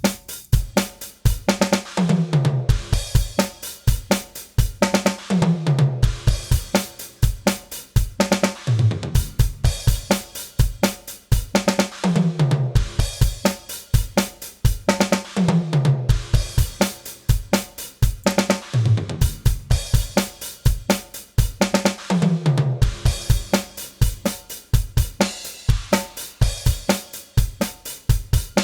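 DrumGizmo virtual drum kit playing a steady groove of kick, snare, hi-hat and cymbals, with a low, falling-pitch hit about every three and a half seconds. The overhead and room tracks are mixed in, carrying the simulated bleed and reverb.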